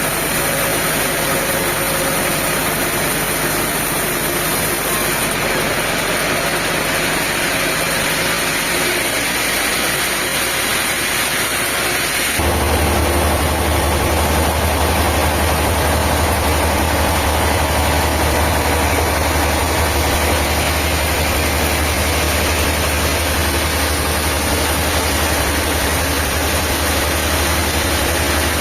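Diesel engine running steadily. About twelve seconds in the sound changes and a strong low hum comes in, as if the machine has been put under load.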